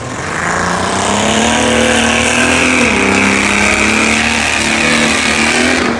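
Stock-class rough truck's engine revving hard at full throttle, holding a high, steady pitch with a brief dip about halfway through.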